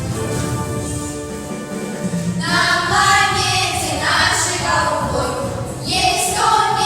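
Song with an instrumental backing track; about two and a half seconds in, a group of young voices starts singing together over it.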